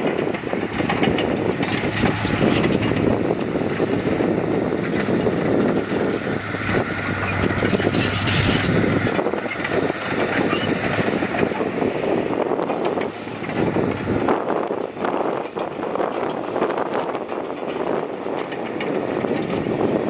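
Heavy diesel earthmoving machinery working, a steady engine with clattering and rattling throughout. The low engine hum drops away about nine seconds in.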